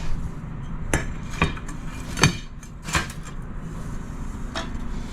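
About five sharp clinks and knocks of hard objects, tile pieces and tiling tools, spaced irregularly over a steady low hum.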